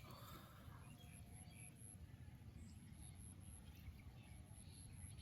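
Faint outdoor ambience: a high, evenly pulsing trill over a low rumble, with a few faint chirps.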